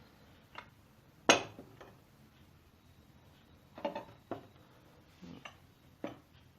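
Metal parts being handled and set down on a hard surface: about seven separate clinks and knocks, the loudest a little over a second in.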